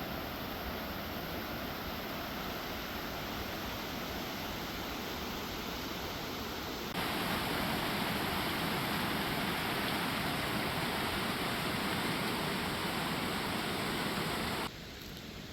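Steady rush of falling mountain water, an even roar with no distinct events. It jumps louder about seven seconds in and drops abruptly quieter near the end.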